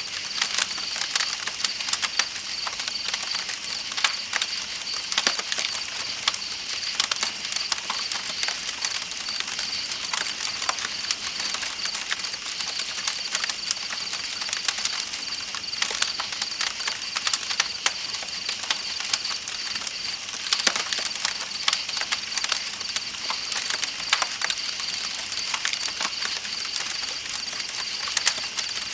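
Night insects chirp in a steady, pulsing, high-pitched drone. Frequent sharp crackles and pops of a campfire sound over it, with the even hiss of flowing river water underneath.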